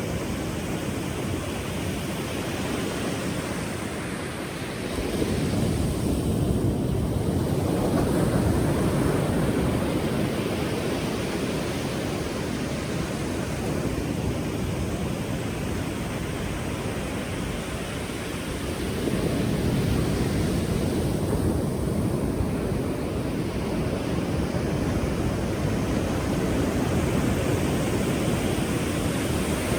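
Ocean surf: a continuous rushing wash, with waves breaking and the sound swelling louder about five seconds in and again about two-thirds of the way through.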